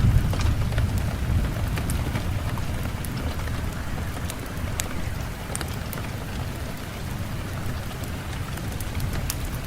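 Steady rain falling, with scattered single drops ticking sharply on a surface. A low rumble of thunder dies away in the first second.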